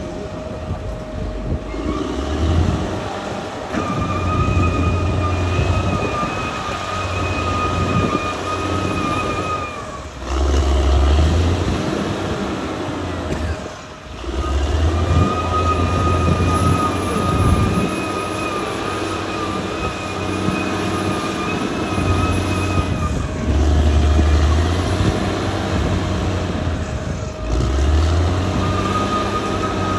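Caterpillar D6R XL bulldozer's diesel engine working under changing load, its note rising and falling as it pushes soil, with brief dips in between. A steady whine comes and goes over the engine for several seconds at a time.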